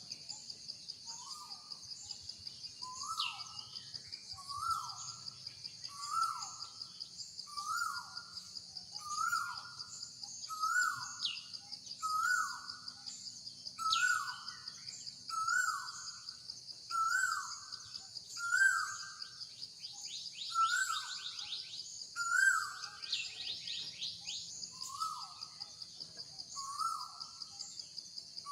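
Steady high-pitched insect chorus, with a bird calling one short note over and over, about every second and a half, pausing briefly near the end. A quick rattling series of chirps breaks in twice past the middle.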